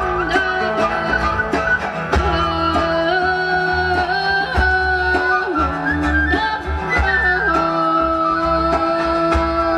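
Live folk-rock band playing an instrumental passage: a flute carries a melody of held and gliding notes over guitar, bass and a steady drum beat.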